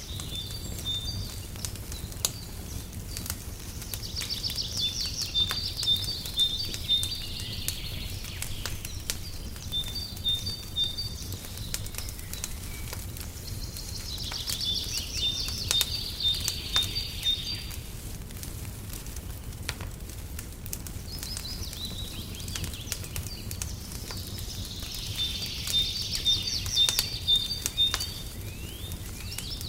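Wood fire crackling in a fireplace, with irregular snaps over a low steady rumble. Songbirds sing in phrases of quick high notes and trills that recur about every ten seconds.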